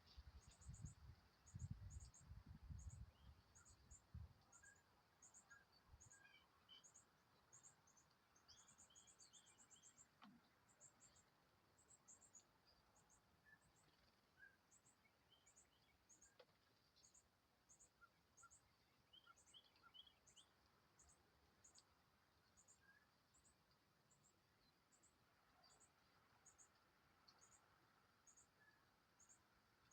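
Faint outdoor ambience: an insect chirping in short, high-pitched pulses about once a second, with a few scattered bird chirps. A few low thumps in the first four seconds.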